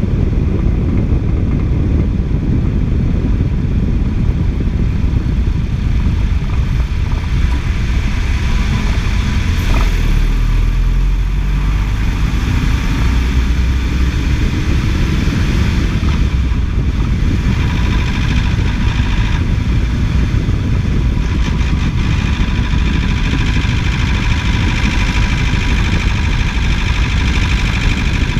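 A 2006 Toyota's engine running steadily, with a noise whose source the owner is trying to trace. Its low rumble swells for a few seconds about a third of the way in.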